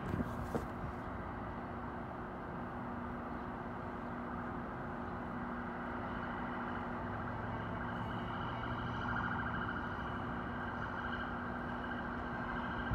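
Train standing or moving at a station platform: a steady electrical hum, with a higher whine joining about six seconds in.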